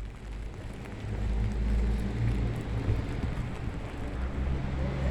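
Wind gusts rumbling on the microphone over a steady outdoor wash of rain, growing louder about a second in.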